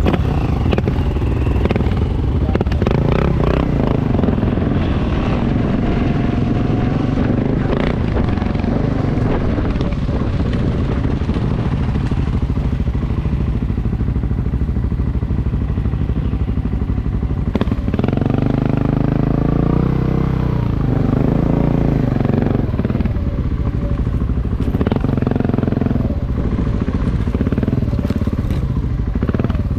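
Motorcycle engine running while the bike rides along, with steady road and wind noise. About two-thirds of the way through, the engine note rises and falls as the rider changes speed.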